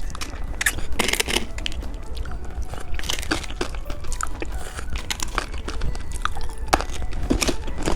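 Close-miked eating of hard candy: scattered crisp crunches and small clicks, with a larger crunch about a second in, over a steady low hum.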